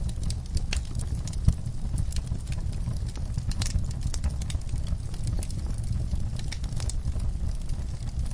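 Wood fire in a fireplace crackling, with irregular sharp pops and snaps, one louder pop about a second and a half in, over a steady low rumble.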